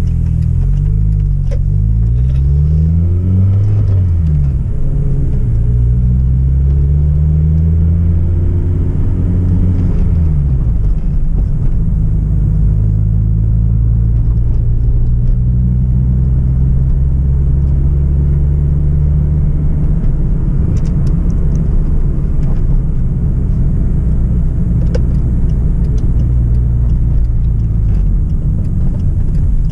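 Hyundai Tiburon's 2.0-litre four-cylinder petrol engine under way. Its pitch rises and drops back several times in the first ten seconds or so as the car accelerates through the gears, then settles into a steady drone while cruising.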